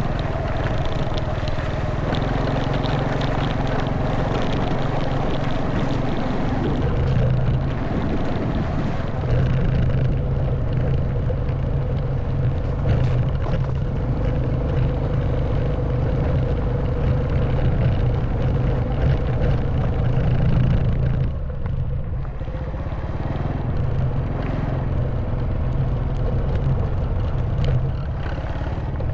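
Honda Wave 110cc motorbike's single-cylinder four-stroke engine running under way, its note shifting with the throttle a few times and easing off briefly about three-quarters of the way through.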